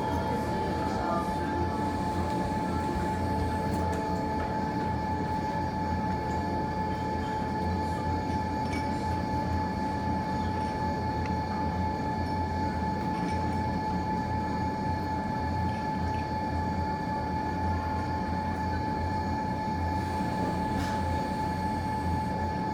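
Steady mechanical hum with a constant high whine and a low rumble, like a ventilation fan or blower running, with a few faint crackles from the fireplace fire.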